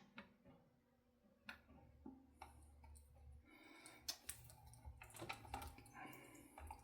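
Faint scattered clicks and small knocks of guitar parts and hardware being handled, with low handling rumble between them.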